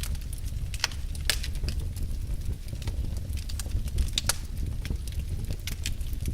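Wood fire burning in a fireplace: irregular sharp crackles and pops, a few close together, over a steady low rumble of the flames.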